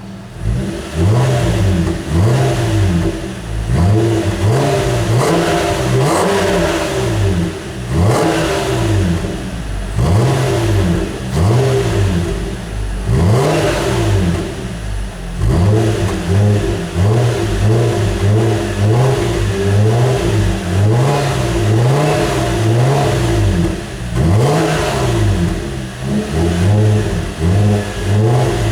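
2002 Nissan Cefiro 3.5-litre V6 exhaust with a Tai-Rong sport muffler and dual-side, dual-outlet tips, blipped again and again: the revs rise and fall back roughly once every second or so.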